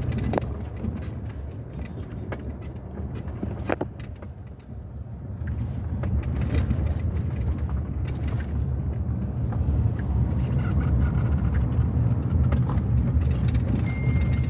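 Car driving, with a steady low rumble of engine and road noise. There are a couple of sharp knocks, one near the start and one just before four seconds in. The rumble eases around four to five seconds in, then builds again.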